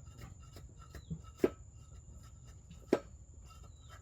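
Two sharp knocks about a second and a half apart, wood being struck while a timber house frame is put together, over a steady high-pitched insect drone.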